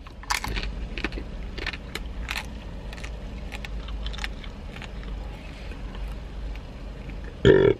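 Close-up crunching and chewing of a crisp fortune cookie: a run of irregular sharp crackles as it is bitten and broken up in the mouth. A brief vocal sound comes near the end.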